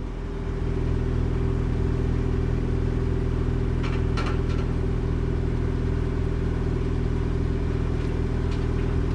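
Mugen-equipped Honda Shuttle Hybrid's 1.5-litre four-cylinder engine idling steadily through its Mugen exhaust, with a low, even note. A couple of faint clicks come about four seconds in.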